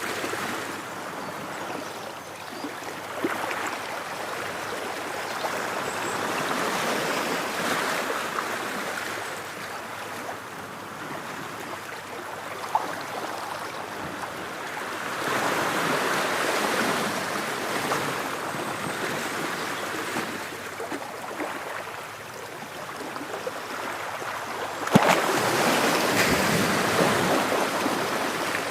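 Ocean waves breaking and washing on a shore, swelling and fading every few seconds, with a sharper, louder wave breaking about 25 seconds in.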